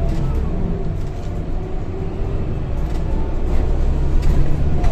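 Scania K230 bus with a ZF automatic gearbox driving along, heard from inside the saloon: a steady low engine and drivetrain rumble with a faint whine, and a few sharp rattles in the second half.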